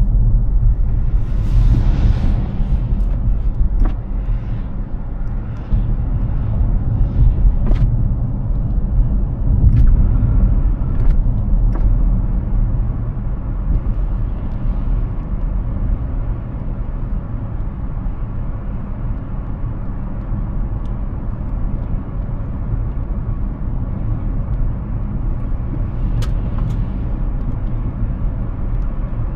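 Road and tyre noise of a Hyundai Ioniq 6 electric car driving, a steady low rumble with no engine note. A hissing swell comes in the first few seconds, and a few sharp ticks are scattered through.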